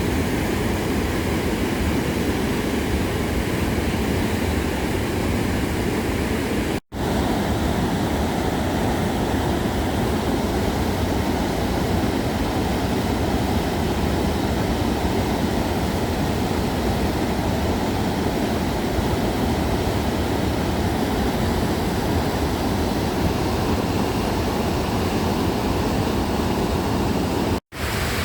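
A waterfall's steady roar of rushing water, loud and even throughout. It breaks for two momentary drop-outs, one about seven seconds in and one near the end.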